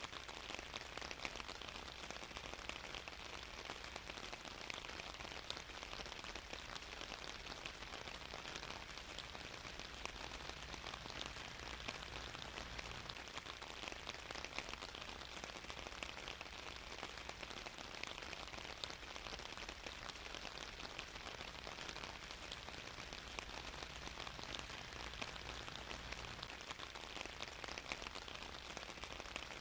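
Steady rainfall pattering on a surface, a dense even hiss of many small drop impacts.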